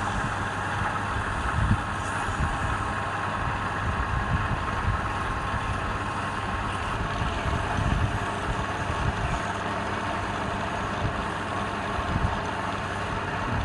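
Wood lathe running steadily, its motor humming under a continuous even noise, with small irregular knocks.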